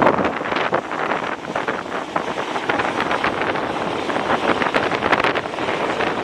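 Strong wind buffeting the microphone, a loud rushing noise with irregular gusty thumps.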